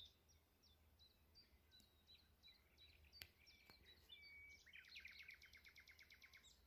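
Faint birdsong in woodland: scattered short chirps, then a fast trill of quickly repeated notes starting about four and a half seconds in and lasting about two seconds.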